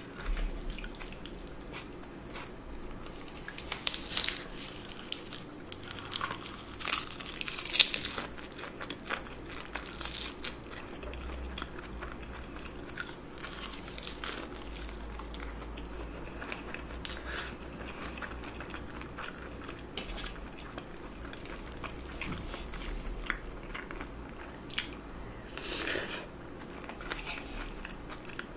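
Close-miked chewing and wet mouth sounds of someone eating soy-marinated shrimp (saeujang) with rice: short smacks and clicks, busiest about four to eight seconds in and again near the end.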